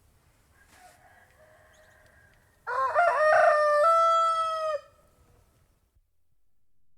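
Domestic rooster crowing: a fainter call first, then one loud cock-a-doodle-doo about three seconds in that steps up in pitch and ends on a long held note, stopping abruptly after about two seconds.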